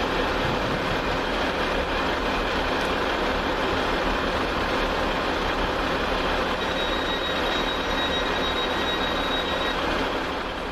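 Two coupled Class 185 diesel multiple units passing through the station at speed: a loud, steady rush of wheels and running gear that starts to fade near the end. A thin high squeal sounds for a few seconds about two-thirds of the way through.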